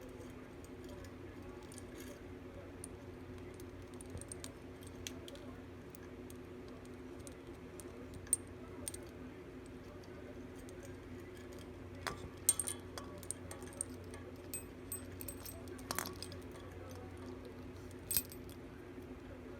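Scattered small metallic clinks and jingles, several clustered about twelve seconds in, over a steady hum.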